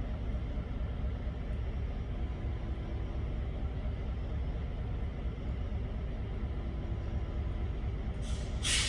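EMD GP38-3 diesel locomotive running, a steady low rumble, with a short hiss of air near the end.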